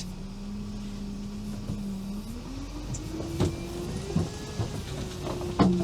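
All-terrain vehicle's engine running steadily, then revving up about two seconds in and holding at higher revs as it pushes through deep wet snow, with a few knocks and thumps over it.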